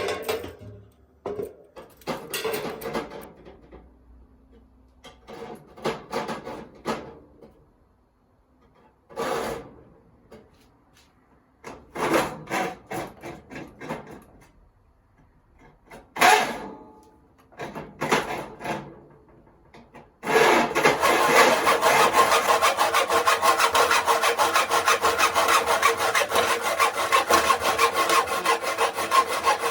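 Scattered clattering and knocks of tools and parts being handled, then, about two-thirds of the way in, continuous sawing starts and keeps going.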